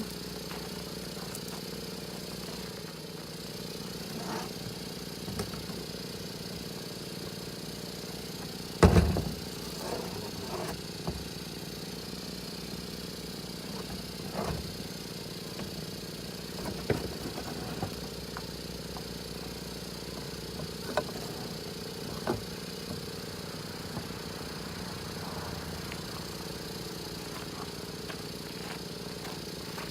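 A steady mechanical drone, engine-like, runs throughout, with scattered knocks and clinks of parts and tools being handled during turbocharger work; the loudest is a single sharp knock about nine seconds in.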